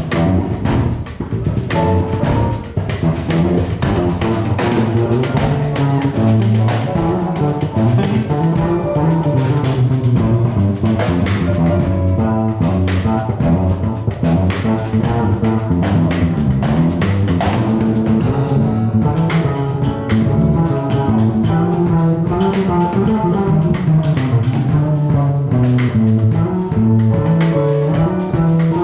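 A jazz fusion quintet playing live at a steady full level: drum kit, electric bass, guitar, piano and saxophone, with dense melodic lines over a driving groove.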